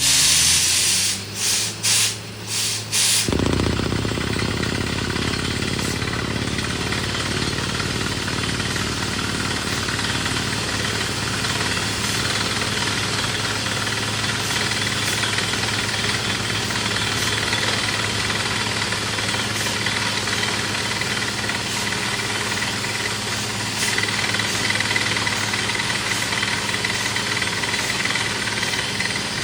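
Borewell drilling rig running. A few short blasts of air hiss come in the first three seconds, then the engine comes in under a steady hiss and keeps running; a high whine joins in the last few seconds.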